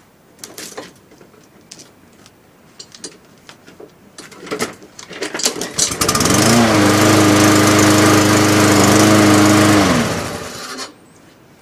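Craftsman lawnmower's small engine cold-started with one pull of the recoil starter: a few clicks and rattles, then the engine catches about five seconds in and runs steadily for about four seconds before it is shut off, its pitch falling as it winds down.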